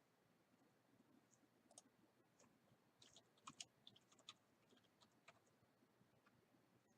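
Near silence with scattered faint clicks of a computer mouse and keyboard, most of them in a cluster about three to four seconds in.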